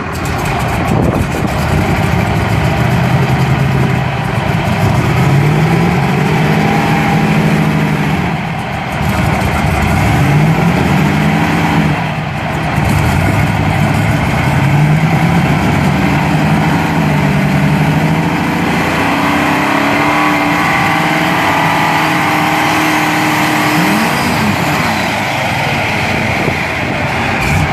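Unlimited super stock pulling tractor engine running loudly and being revved up and down several times, each rev a rising then falling sweep. The engine is being tested after a rebuild of five rods and pistons.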